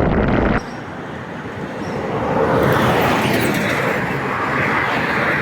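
Road traffic noise: a steady hiss of a vehicle on the road that swells about two seconds in. Before that, wind buffeting on the microphone cuts off abruptly about half a second in.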